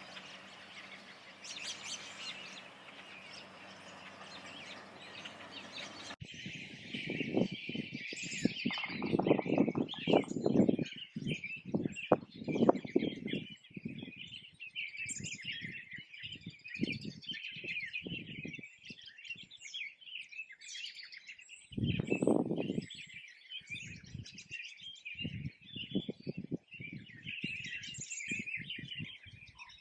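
A spring chorus of many songbirds singing and calling at once, a dense tangle of overlapping high chirps and trills. Over the first six seconds a steady hiss lies under the birds and then cuts off abruptly. After that, irregular low rumbles and thumps come and go beneath the song, heaviest a few seconds after the hiss stops and again past the twenty-second mark.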